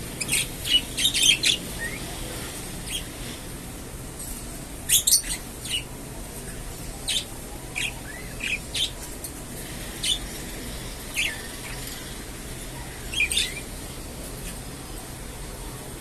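Budgerigars chirping and squawking: short, sharp, high calls scattered irregularly, with a cluster near the start and another about five seconds in, over a steady low hum.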